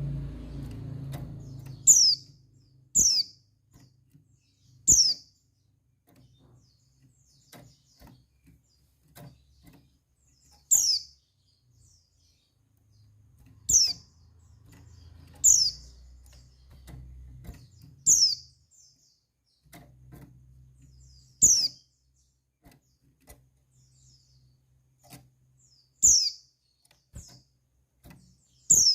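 Female white-eye (pleci) giving short, high chirp calls, each a quick downward slide in pitch, about ten of them spaced irregularly one to five seconds apart. A faint low rumble comes and goes underneath.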